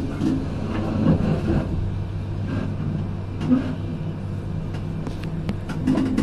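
Passenger train heard from inside the carriage while it rolls slowly: a steady low hum with scattered short clicks and knocks from the wheels and running gear, more of them near the end.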